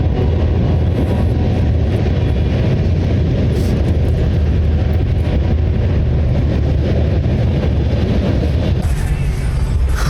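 Union Pacific train passing with a steady, loud rumble.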